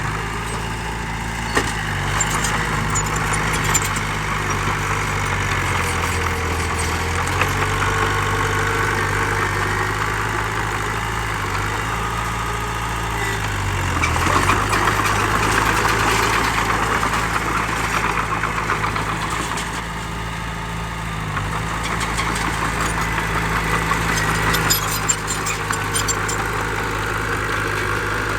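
Diesel engines of heavy earthmoving machinery, a dump truck and bulldozer, running steadily. The engine note dips and picks up again about three times as the machines take and shed load, and it is loudest a little past the middle.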